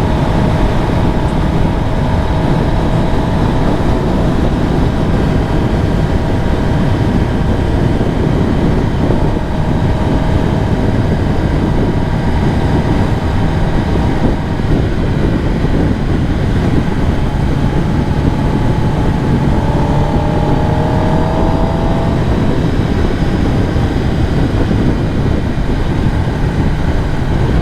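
2023 Kawasaki ZX-10R's inline-four engine running while riding, over a steady rush of wind noise. About twenty seconds in, the engine note rises briefly as the bike accelerates.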